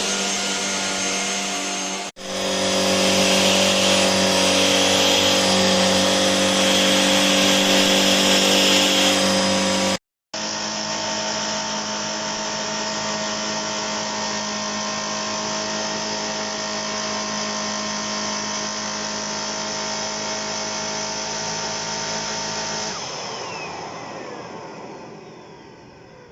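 Handheld mattress vacuum cleaner running steadily, a motor hum with several steady tones. About ten seconds in, the sound cuts to another recording of it running. Near the end it is switched off and the motor winds down and fades.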